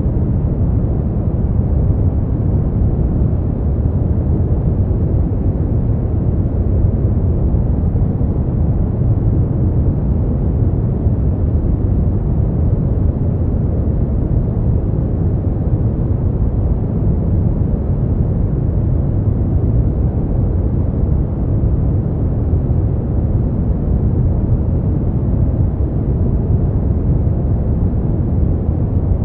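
Continuous steady noise from a sleep-noise track sold as white noise, deep and muffled with little hiss, unchanging throughout.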